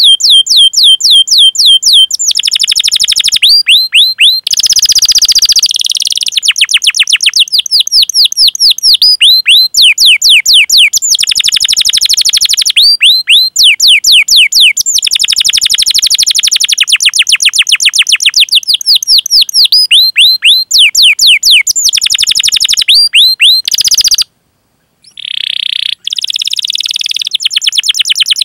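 Domestic canary singing: long rapid trains of sharp falling 'cuit-cuit' chirps and rolling trills, phrase after phrase. There is a brief break about three-quarters of the way through, and a denser rolling trill follows.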